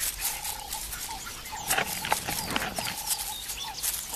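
Natural bush ambience: a bird repeats a short, level whistled note over and over, with other high chirps and fine insect ticking. A few sharper squeaks stand out near the middle.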